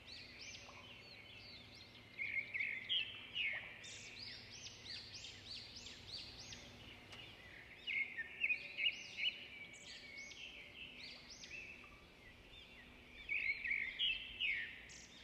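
Small birds chirping in quick runs of short, bright notes, in three louder bouts with quieter chirping between, over a faint steady background hum.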